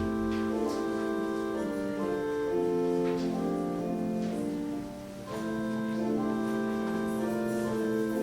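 Organ music: slow, held chords moving from one to the next, with a short breath between phrases about five seconds in.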